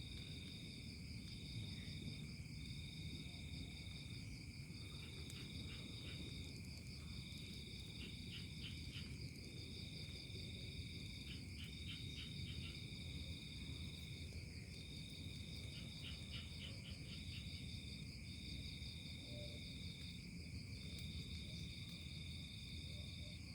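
Chorus of insects such as crickets: several steady, high trills at once, one of them coming in phrases a second or two long with short gaps, over a low hiss and rumble. Short runs of faint clicks come in now and then between the trills.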